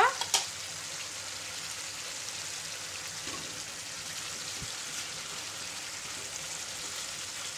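Chicken pieces and potato chunks sizzling in oil in a frying pan, a steady, even hiss.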